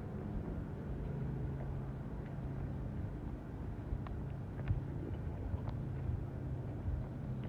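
A steady low mechanical hum with faint scattered clicks.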